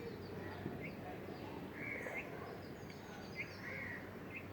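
Birds calling: short calls repeating every second or so, with thin falling chirps higher up, over a faint steady background noise.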